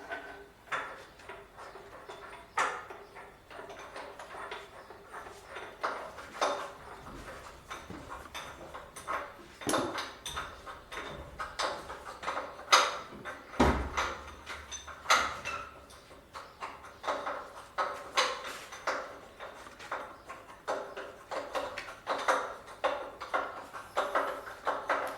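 Irregular metallic clinks and knocks of hand tools working on a tractor's metal parts, with one heavier thud about fourteen seconds in.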